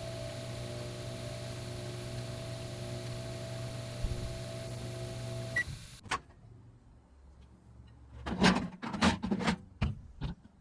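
Microwave oven running with a steady hum, which stops about halfway through with a short high beep and a click. A few seconds later come a series of sharp knocks and clatters.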